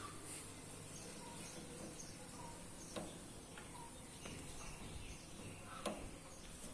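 Faint, short chirps from parrot chicks, scattered over a steady background hiss, with two soft knocks, one about three seconds in and one near the end.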